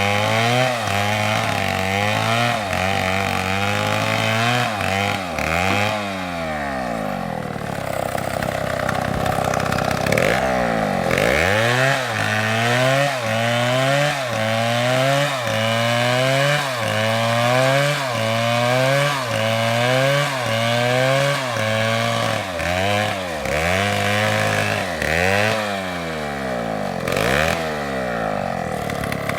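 STIHL chainsaw cutting into wood, its engine pitch dipping and recovering in a regular cycle about once a second as the chain bites and frees. The pitch sags lower for a few seconds early on before the cycle picks up again.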